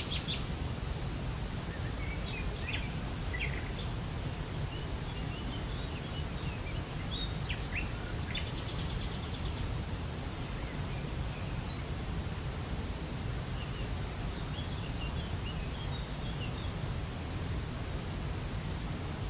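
Steady rush of a waterfall, with small birds chirping here and there over it and two short rapid buzzy trills, about 3 seconds in and again around 9 seconds.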